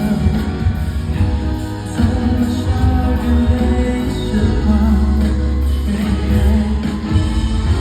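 Live pop music: a singer's voice over a band with a heavy, sustained bass.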